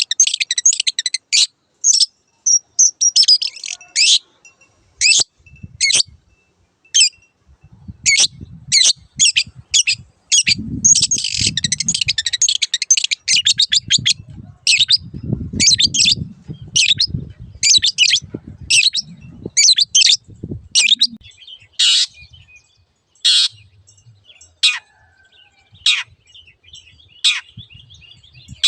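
Long-tailed shrike singing: a run of short, sharp high notes, about one to two a second, broken by bouts of rapid chattering at the start and again about ten seconds in. The notes thin out over the last several seconds.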